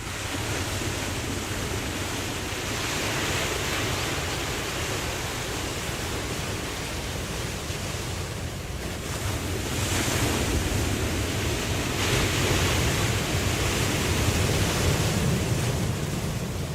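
Ocean waves washing in, a steady surf hiss that swells and eases every few seconds, with some wind.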